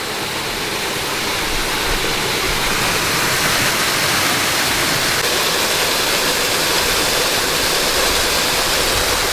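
Waterfall heard up close, its water falling and splashing in a steady, loud rush that grows a little louder over the first two seconds.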